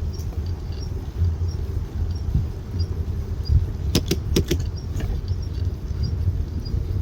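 Steady low rumble of a bike ride, road and wind noise, with a quick cluster of rattling clicks about four seconds in and faint regular ticking.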